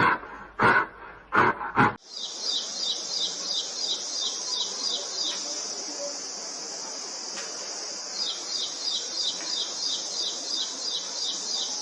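For about two seconds, short, loud calls repeat roughly every half second, the tail of a big cat's roaring. Then a continuous high-pitched insect buzz takes over, pulsing in regular chirps about four times a second until it cuts off at the end.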